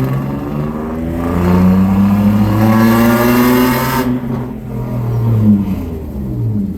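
BMW E36 coupé's engine accelerating in second gear, its pitch rising for about three seconds. The throttle then closes abruptly and the revs fall away.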